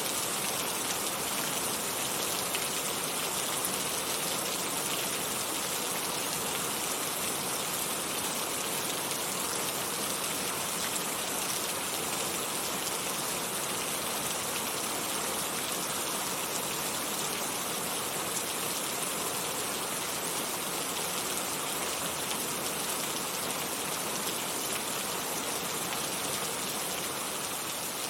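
Heavy rain falling steadily, a dense even hiss of countless drops with no separate splashes standing out.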